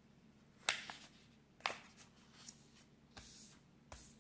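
A sheet of printer paper being folded and creased by hand: a few sharp paper crackles, the loudest near the first and second seconds, and a short rustle a little past three seconds.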